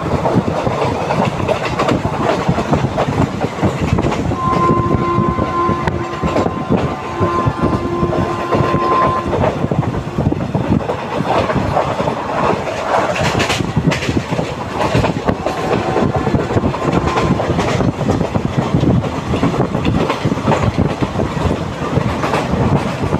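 Roha–Diva MEMU train running along the line, heard from inside the carriage: a steady rumble full of wheel knocks over the rail joints. From about four to nine seconds in, a steady two-tone train horn sounds over it.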